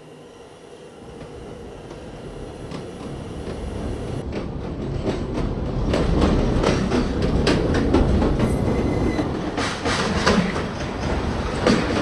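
New York City subway train running through the station. Its noise builds steadily over several seconds into a loud rumble, with sharp wheel clicks over the rail joints.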